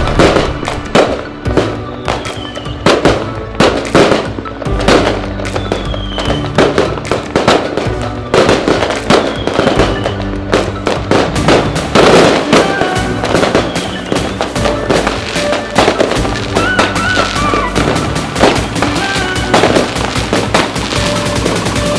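Fireworks exploding in rapid, dense bangs and crackles, over background music.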